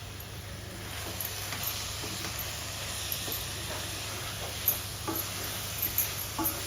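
Vegetable, potato and spice masala sizzling in a pan as it is stirred, with the spoon scraping and clicking against the pan a few times in the second half.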